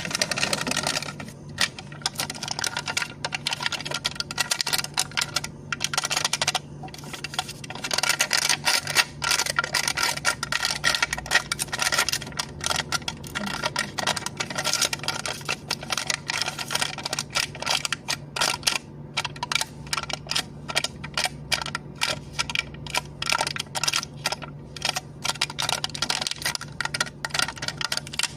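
Cup lid being tapped and clicked for ASMR: rapid, irregular clicking that keeps going, over a faint steady low hum.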